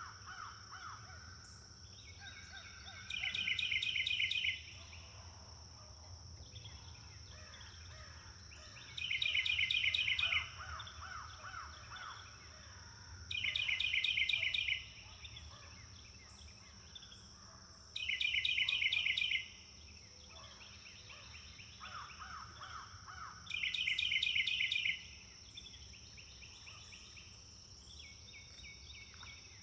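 Forest songbirds: one bird repeats a loud, fast, high trill five times, each phrase about a second and a half long and four to five seconds apart, between softer calls of other birds, over a steady high-pitched drone.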